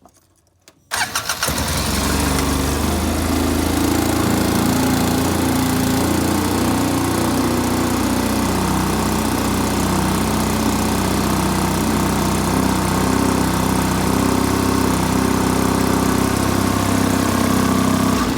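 2005 Polaris Ranger XP 700's twin-cylinder EFI engine cranking briefly and starting about a second in, then running at a steady idle with its throttle position sensor reconnected, and shut off right at the end.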